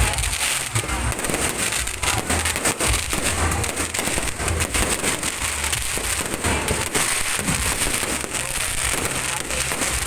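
Fireworks display: many bangs and crackles from exploding shells in quick, continuous succession.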